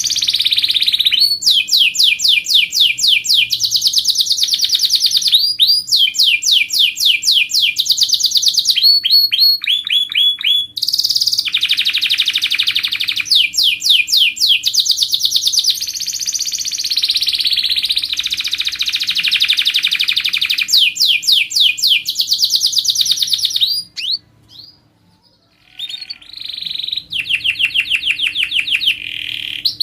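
Domestic canary singing a long, loud song of rapid trills, each a fast run of repeated high notes, pausing briefly about three quarters of the way through. A faint steady hum runs underneath.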